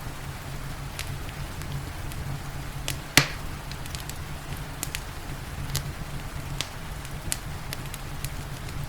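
Wood fire crackling, with sharp pops scattered over a low steady rumble and the hiss of rain; one louder pop about three seconds in.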